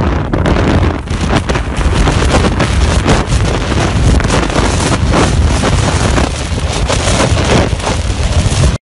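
Loud, steady wind blasting the microphone in a storm, cutting off suddenly near the end.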